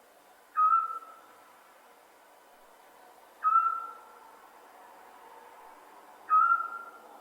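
Scops owl calling: three short, single whistled notes, each about half a second long, repeated roughly every three seconds.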